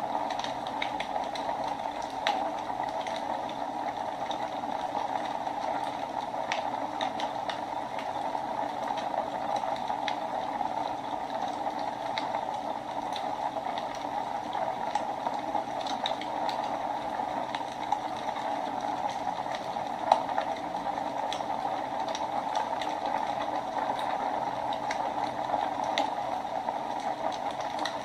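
Wood fire crackling in a fireplace: a steady hiss with scattered pops and snaps, one louder pop about twenty seconds in.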